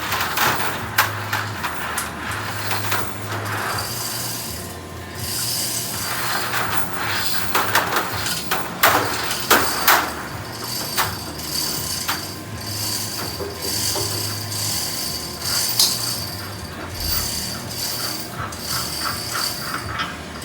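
Rigging gear being worked: metal clanks and scraping, with runs of rapid ratchet-like clicking in the second half, over a steady low hum of boiler-room equipment.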